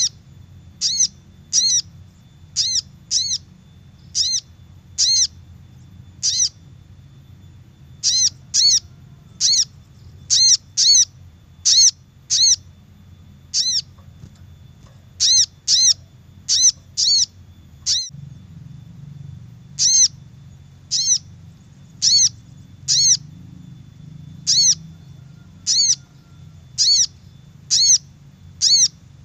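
Sogok ontong (spiderhunter) lure call: short, sharp chip notes repeated about one or two a second, in runs with brief pauses, over a faint low hum.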